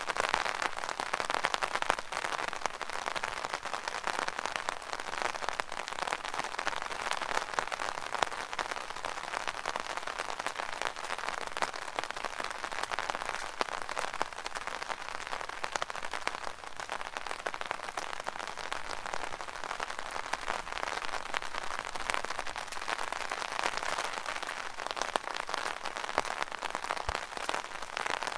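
Rain falling on an umbrella: a steady, dense patter of drops on the canopy.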